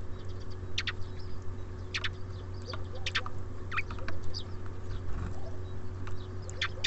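Small songbirds giving short, high chirps and call notes at irregular intervals, over a steady low hum.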